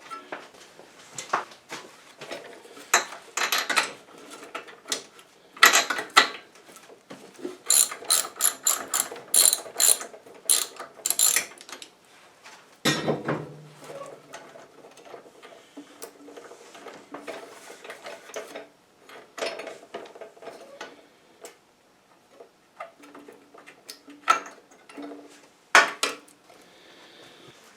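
Socket ratchet clicking in quick runs, with scattered clinks of metal tools, as a spark plug is unscrewed from a small snow blower engine.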